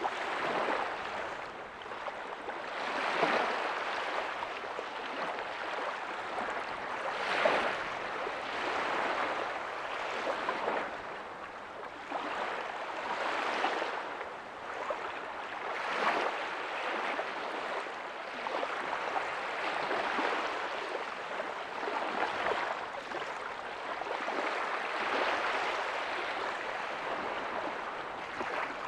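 Ocean waves breaking softly on a beach: a steady wash of surf that swells and fades, with a surge every few seconds.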